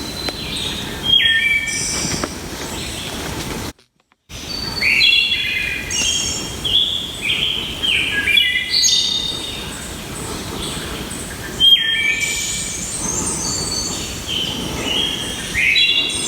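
Songbirds singing in woodland: repeated short phrases of high whistled notes that step downward, several overlapping, over a steady low background hush. The sound cuts out completely for about half a second about four seconds in.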